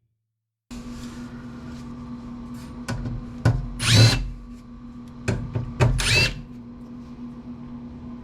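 Power drill whirring in short bursts while removing screws from an amplifier's case, with two longer runs about four and six seconds in, over a steady low hum.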